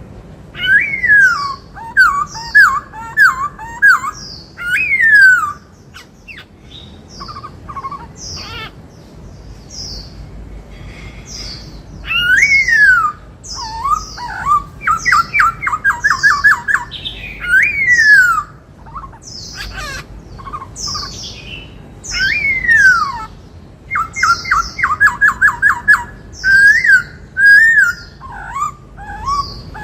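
Black-throated laughingthrush singing: loud, clear whistled phrases with slurred falling notes and quick runs of short repeated notes, with a quieter pause in the middle. Its song includes a mimicked Indian cuckoo call.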